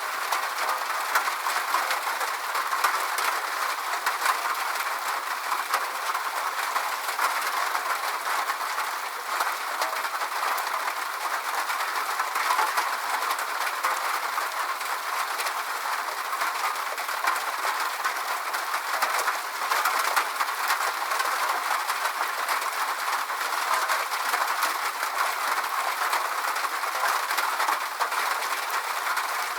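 Steady rain: an even hiss of rainfall with a dense patter of small drop ticks, holding the same level.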